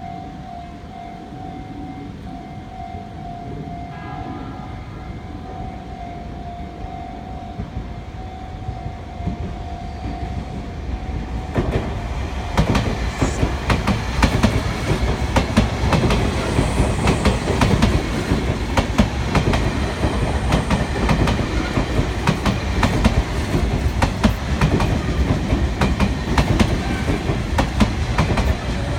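Level-crossing warning bell sounding steadily. After about twelve seconds a Sotetsu New 7000 series electric train passes over the crossing with a light clickety-clack of its wheels over the rail joints.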